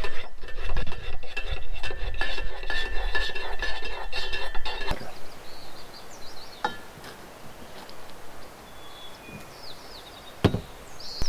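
Metal utensils and dishes clinking and ringing for about five seconds. It then cuts to a quieter stretch with a few faint bird chirps and a single knock near the end.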